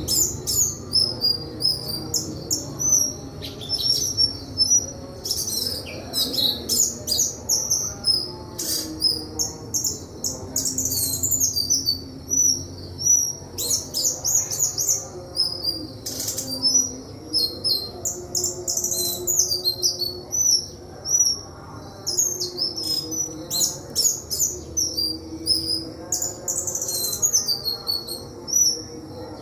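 A sikatan kerongkongan putih (white-throated flycatcher) singing a long, continuous run of rapid, high chirps and trills.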